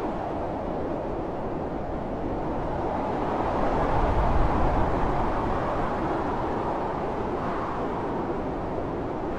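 Blizzard wind blowing steadily with a deep rumble, swelling into a stronger gust about four seconds in.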